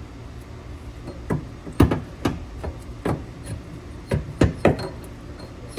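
A run of about eight sharp metallic clanks and clinks at irregular spacing, each ringing briefly, as metal tools and parts knock against each other, over a low steady shop hum.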